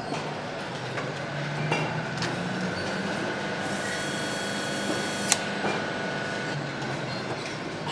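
Workshop machinery running with a low steady hum and a thin whine, a short hiss in the middle and sharp tool clicks, the loudest a little past halfway, during motorcycle engine assembly work.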